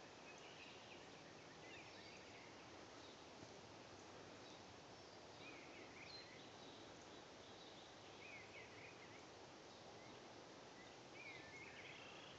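Near silence with a faint steady hiss, broken by short clusters of faint bird chirps every few seconds.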